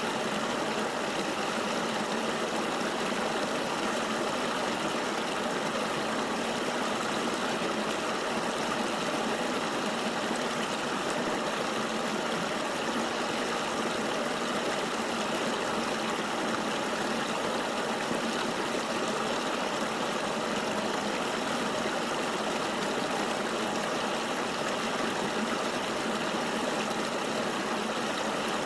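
Steady rushing of flowing river water, an even, unbroken hiss with no deep rumble and no separate splashes.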